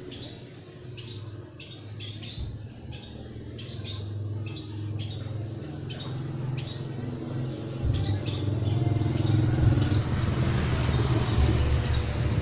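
Small birds chirping, a quick series of short high notes repeated two or three times a second, over a steady low engine rumble that grows louder about eight seconds in.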